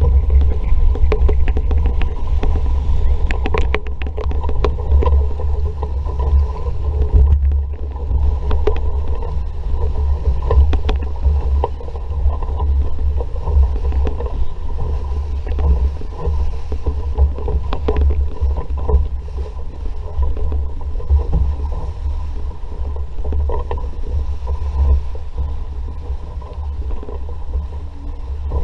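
RS Vareo sailing dinghy under way in a stiff breeze: wind buffeting the camera microphone in a heavy, continuous rumble, with water rushing along the hull and frequent small splashes and knocks.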